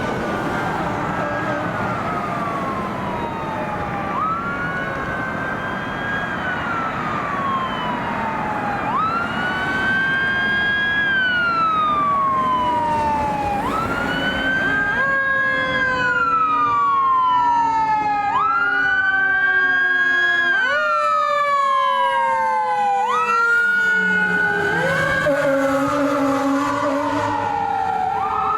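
Fire engine siren wailing on an emergency response, each cycle rising quickly and falling slowly, about every four and a half seconds. A second, lower wailing tone joins about halfway through, and the sound grows louder after about nine seconds.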